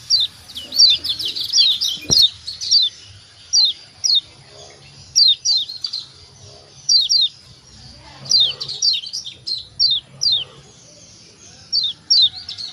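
Kecial kuning (Lombok yellow white-eye) giving repeated short, sharp 'ciak' calls. Each note drops quickly in pitch, and the notes come in quick clusters of two to four with short gaps. These are the excited calls used to set other white-eyes calling and singing. A single brief knock sounds about two seconds in.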